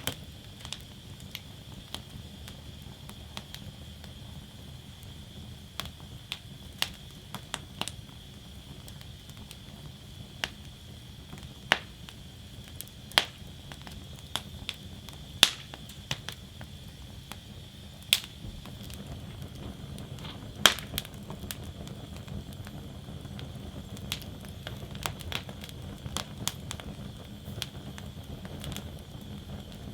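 Wood fire burning in a fire basket, crackling with irregular sharp pops. A few louder cracks stand out about halfway through, over a steady low rumble and hiss of the flames.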